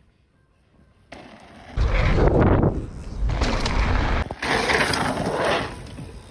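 Mountain bike rolling fast along a dirt jump line, with tyre and rushing-air noise. It starts after about a second of near silence.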